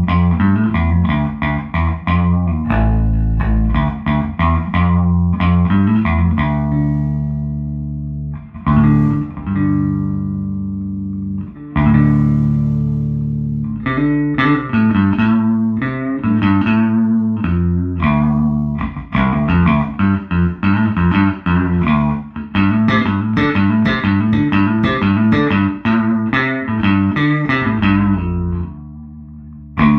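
Electric bass guitar played through a 1973 Fender Twin Reverb Silverface combo amp with 1978 CTS Fender Special Design speakers, normal channel, bright switch off: a busy line of plucked notes with a few held notes, stopping about a second before the end.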